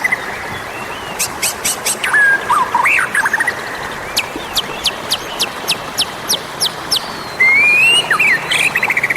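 White-rumped shama (murai batu) singing: varied whistled phrases, a quick series of sharp down-swept notes in the middle, and a long rising whistle near the end, over a steady background hiss.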